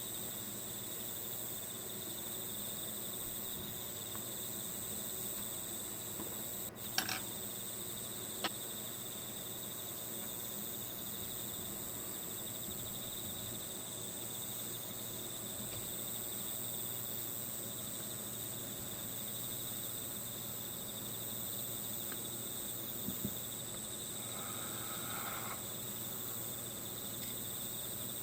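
Steady chorus of crickets trilling as an unbroken background, with a few light clicks about seven and eight seconds in and again near the end, and a brief soft rustle shortly before the end.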